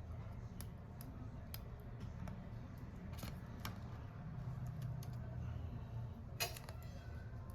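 Scattered small clicks and taps of hand tools working on a phone during a repair, with one sharper click about six and a half seconds in, over a low steady hum.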